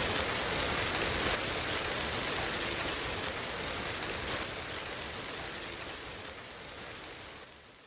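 Steady rain with the crackle of a wood fire, scattered sharp ticks over the even hiss of the rain, fading out toward the end.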